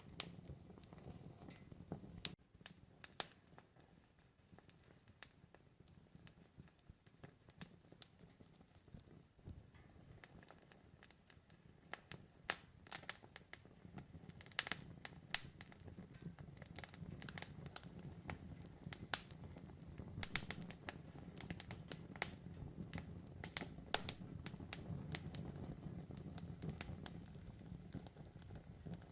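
Campfire burning, the wood crackling and popping in irregular sharp snaps over a low, steady rumble of the flames. The pops come more thickly in the second half.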